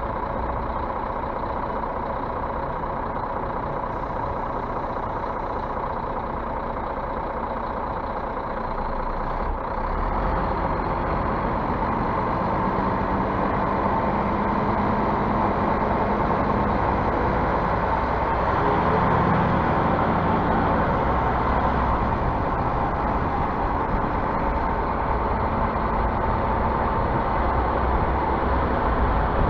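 Scania bus's diesel engine running steadily, growing louder about ten seconds in.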